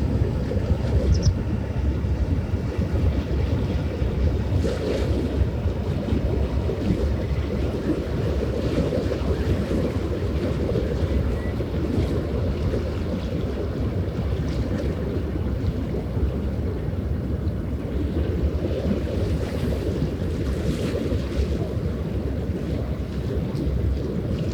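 Steady low rumble of wind buffeting the microphone, with water washing along the shore.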